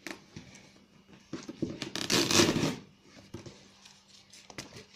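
Packing tape being peeled off a cardboard box by hand: a longer tearing rip about two seconds in, with small crackles and clicks around it.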